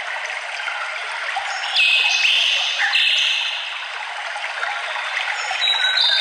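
Birds singing over the steady rush of running water. The loudest song phrase comes about two seconds in and lasts about a second and a half, and another starts near the end.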